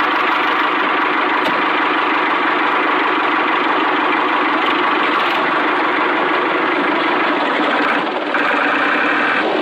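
Mini tractor's engine running steadily at idle, freshly started. A higher-pitched buzz joins about eight seconds in.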